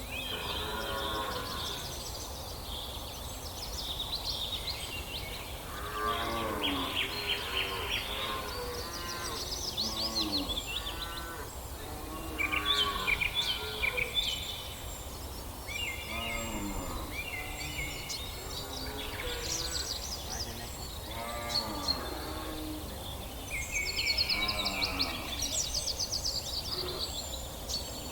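Cattle mooing again and again, a call every two to three seconds, with birds chirping and singing throughout.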